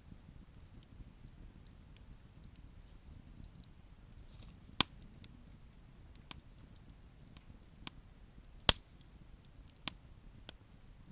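Wood fire crackling: scattered sharp pops, the two loudest about five and nine seconds in, over a faint low rumble.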